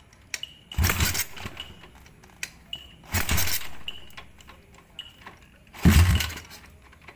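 Engine blipped three times through a BMS aftermarket exhaust, each short rev swelling and dying away, about a second in, after three seconds and near six seconds.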